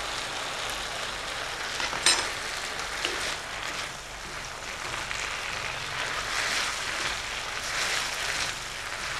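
Mutton with garlic, ginger and spring onion sizzling in sesame oil in a kadhai and being stirred with a spatula, a steady hiss that swells a little now and then. One sharper clack of the spatula against the pan about two seconds in.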